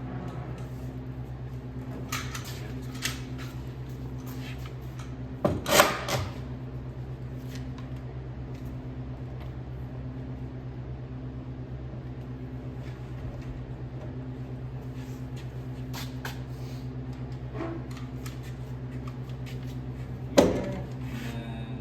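A steady low machine hum, with a few knocks and clatters: a loud cluster about six seconds in and another sharp one near the end.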